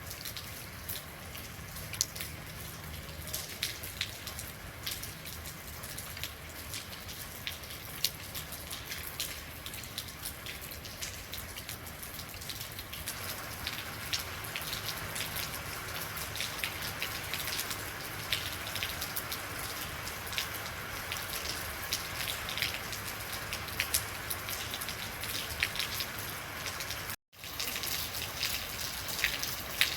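Real rain falling, a steady hiss with many individual drops ticking sharply on a hard surface. It grows a little heavier about halfway through, and the sound cuts out for a split second near the end.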